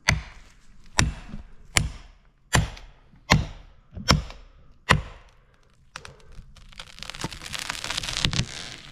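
A heavy felling axe striking wood seven times, about one blow every 0.8 seconds, each a sharp crack. Over the last two and a half seconds a rushing, crackling noise rises steadily.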